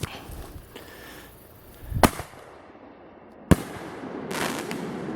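Aerial firework shell fired from a mortar tube: a deep thump of the lift charge about two seconds in, then a sharp bang about a second and a half later as the shell bursts, followed by a rising hiss as the effects spread.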